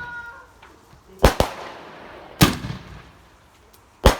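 Fireworks going off: a quick double bang about a second in, another bang a second later, and one more near the end, each trailing off in a low echo.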